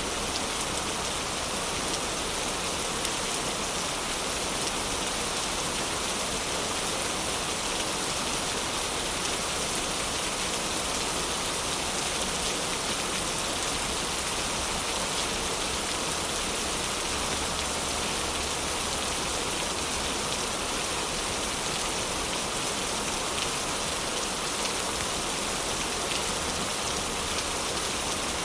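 Heavy rain falling steadily, with a few faint crackles from a wood fire in a fireplace.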